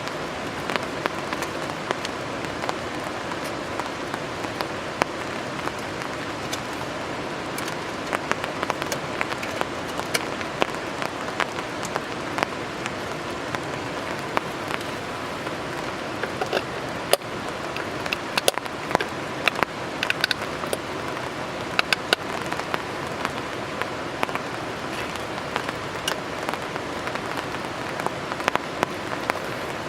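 Steady rain, with many separate drops tapping close by and a few short clinks a little past the middle.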